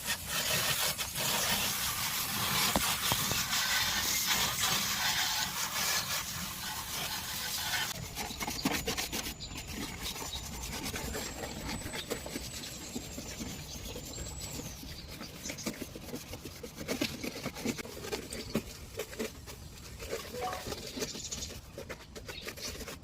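Scrubbing and rubbing strokes on an air conditioner's casing as it is cleaned. Denser and hissier for about the first eight seconds, then quieter and more broken.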